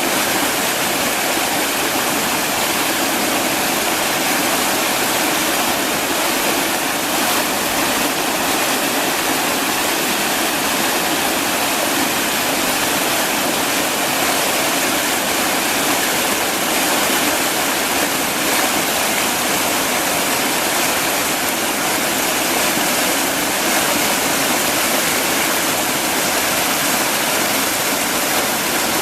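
Small waterfall rushing steadily, a dense, even roar of falling water.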